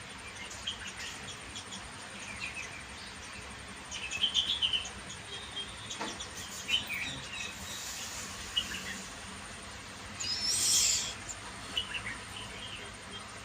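Birds chirping in short, scattered calls over a steady insect background, with a louder cluster about four seconds in. Near the end comes a louder burst lasting under a second.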